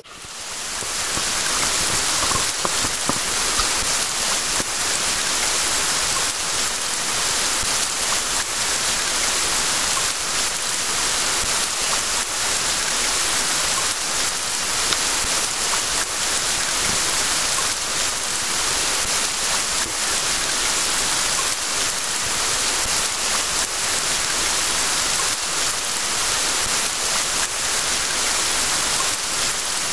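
Steady rain: an even hiss of falling rain that swells up over about the first second, then holds level.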